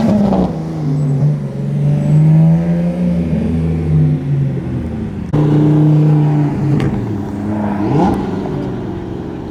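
Car engines running at a car meet, a steady low engine note that shifts in pitch, changing abruptly about halfway through. Near the end an engine revs up in quick rising sweeps.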